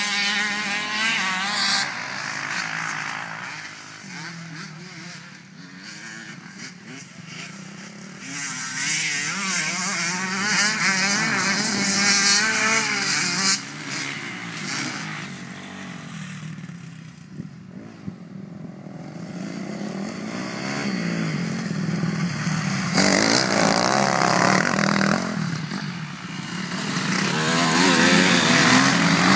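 Motocross motorcycle engines revving up and down through the gears, the pitch rising and falling constantly. The sound swells loud three times and fades between, as the bikes come close and pull away.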